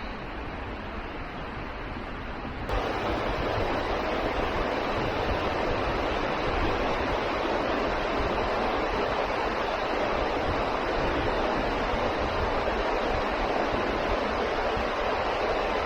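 Steady rush of falling water from a waterfall, stepping up suddenly to a louder, fuller rush about three seconds in.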